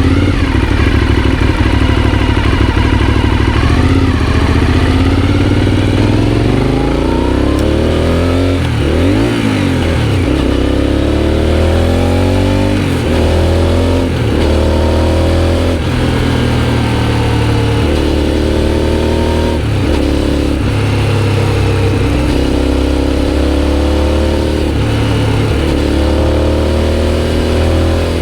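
Aprilia Shiver 750's 90-degree V-twin running through a GPR Italia aftermarket exhaust, steady at first. From about nine seconds in, the engine note rises in pitch and falls back sharply again and again as the bike accelerates, eases off and changes gear.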